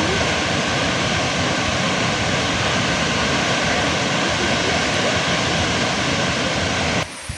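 Steady roar of Thomson's Falls, an even rush of falling water. It cuts off suddenly near the end as acoustic guitar music starts.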